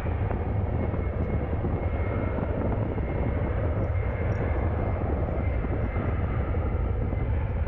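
Jet airliner engines producing a steady, even rumble, with a faint high whine above it.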